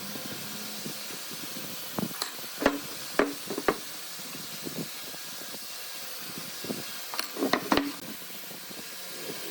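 Steady hissing workshop noise with a few sharp knocks and clacks, like wood or tools being handled. The knocks come in two clusters, a little after two seconds and again around seven seconds.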